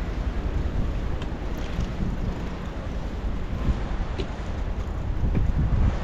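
Blizzard wind buffeting the microphone: a steady low rumble, with a few faint knocks.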